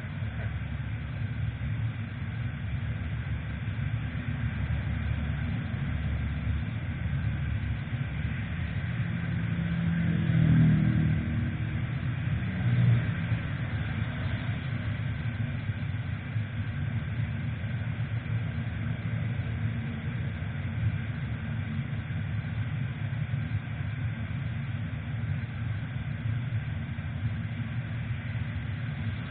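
Steady rumble of wind and road noise from a moving motorcycle, with its engine running underneath. The noise swells to a peak about ten seconds in, where a brief pitched tone shows, and there is a short louder bump near thirteen seconds.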